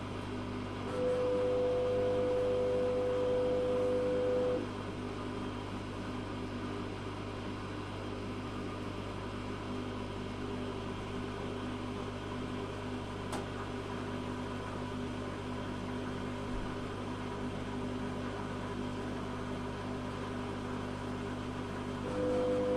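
Zanussi FA623 washing machine running, with a constant low hum. Its motor whines steadily for a few seconds about a second in, stops, and starts whining again near the end.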